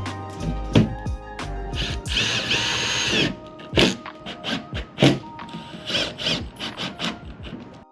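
Background music over construction sounds: a power drill whines for about a second, about two seconds in, among repeated sharp knocks and clicks.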